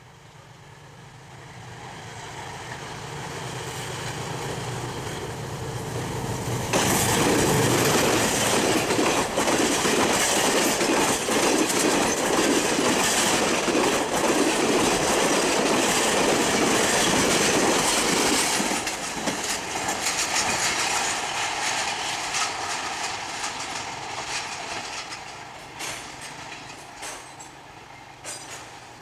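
Pakistan Railways HBU-20 diesel locomotive hauling an express passenger train past at speed. The engine drone swells as it approaches. About seven seconds in the sound jumps suddenly to a loud rush as the locomotive passes, and the coaches rattle by for about ten seconds. It then fades, with wheels clicking over rail joints near the end.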